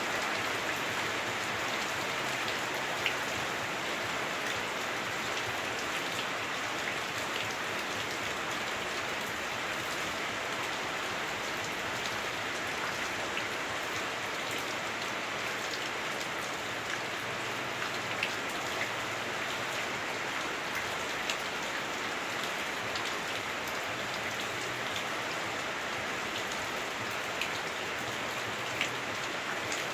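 Heavy rain falling on a house roof, heard from inside the house: a steady, even hiss with a few sharper drop hits standing out now and then.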